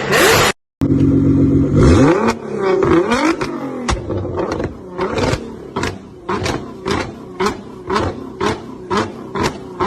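Sports car engine revving and falling back after a brief cut, then a regular sharp clicking or popping about twice a second over the engine's running.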